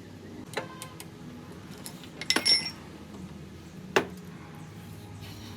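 Metal tools or parts clinking together a few times, with a ringing cluster of strikes midway and a sharp knock near the end, over a steady low machine hum.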